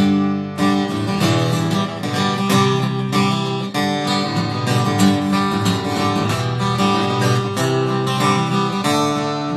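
Acoustic guitar playing the instrumental introduction to a song, a steady run of plucked notes and chords.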